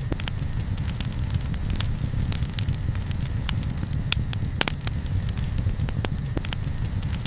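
Campfire crackling, with many sharp pops at irregular intervals over a steady low rumble.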